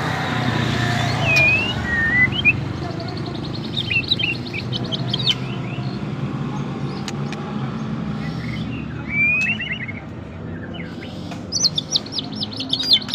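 White-rumped shama (murai batu) in agitated song, the state keepers call 'emosi': scattered short whistled glides and chirps, then a fast rapid run of high, sharp notes near the end. A steady low hum runs underneath.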